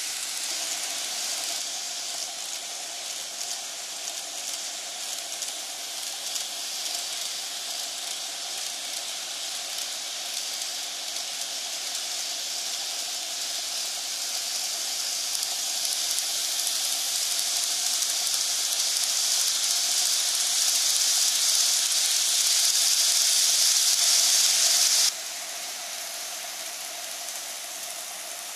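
N-gauge model train running on its track: a steady hiss of wheels and motor over a low hum. It grows louder for about ten seconds, then drops away suddenly about 25 seconds in.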